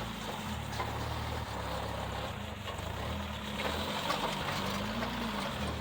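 Off-road vehicle engine running at low revs, its pitch rising and falling a few times, with a few light knocks.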